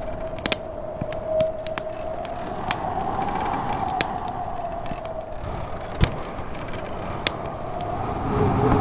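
Wood fire in a fireplace crackling with irregular sharp pops, one louder pop about six seconds in, over a snowstorm wind howling with a wavering pitch. Near the end a second, lower howl joins in.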